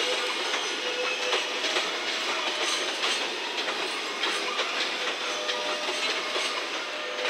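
Slow-moving freight consist of an EF210 electric locomotive and empty Koki container flatcars rolling past. Its wheels give irregular clicks over the track, with a faint squeal.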